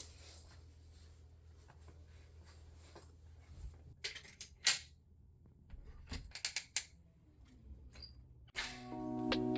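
Scattered light clicks and clinks of small hard objects being handled, loudest in two short clusters around the middle. Background music with chiming notes comes in near the end.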